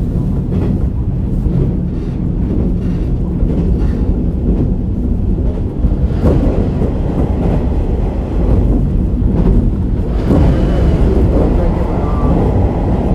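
Running noise inside a KiHa 47 diesel railcar under way: a steady low rumble of the engine and wheels on the rails, muffled as if recorded from a pocket, with a few sharp knocks about six and ten seconds in.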